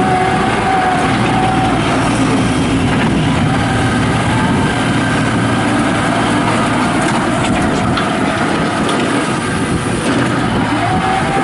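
New Holland LS180 skid steer loader's diesel engine running steadily, with a whine that comes and goes near the start and again near the end.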